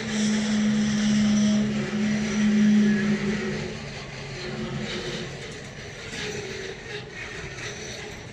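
A Class 185 Traxx electric locomotive passing close by with a loud steady electrical hum for about the first three seconds, then the empty car-transport wagons rolling past with a rattle and knocks of wheels over the rails.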